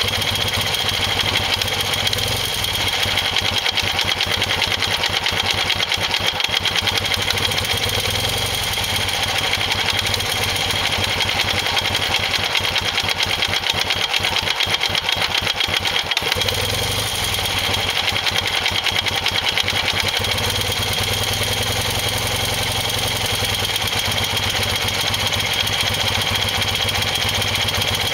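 A 1973 BMW R75/5's air-cooled flat-twin engine running steadily at idle, heard close up.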